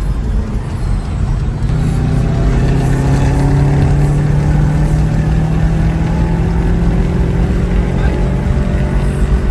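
BMW 335is's twin-turbo N54 inline-six engine running. It gets louder about a second and a half in, and its pitch rises slightly and then eases back.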